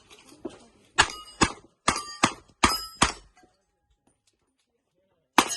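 A string of revolver shots at steel plates: six quick shots about half a second apart starting about a second in, then a pause and one last shot near the end, with steel plates ringing after the shots.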